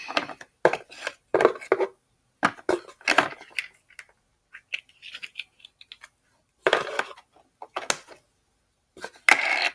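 Small plastic toys and toy accessories being handled and set down, making an irregular string of clicks, clacks and short rattles.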